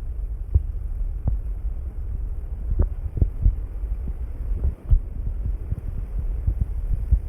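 Gusty wind buffeting the microphone: a steady low rumble broken by irregular thumps.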